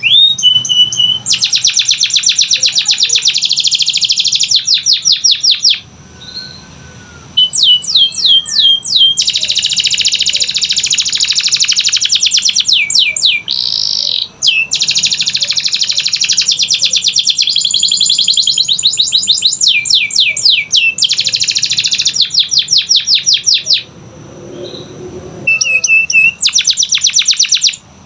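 Canary singing loud, fast rolls and runs of quick repeated chirps, in long phrases with short breaks about six seconds in and again near the end.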